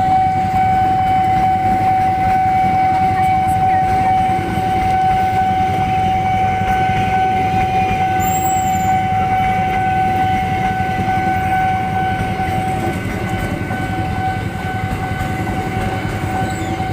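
Long freight train rolling through a station: a steady, loud rumble of wagons with a continuous high whine held on one pitch throughout.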